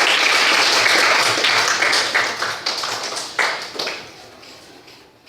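A group of children clapping in applause: a dense burst of many hands that thins into scattered claps and dies away about four seconds in.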